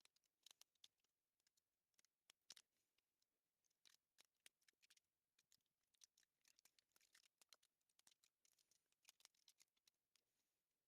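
Near silence, with faint, irregular crackles and clicks scattered throughout.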